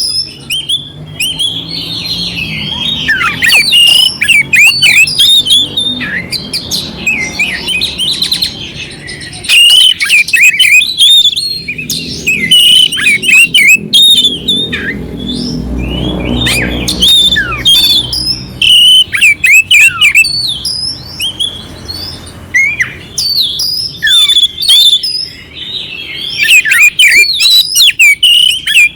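Oriental magpie-robin (kacer) singing continuously: a fast stream of clear whistles and chirps mixed with rough, harsh notes.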